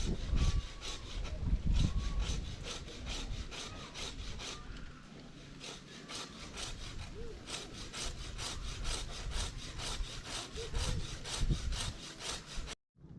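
Hand saw cutting through wood in quick, even back-and-forth strokes; it stops abruptly near the end.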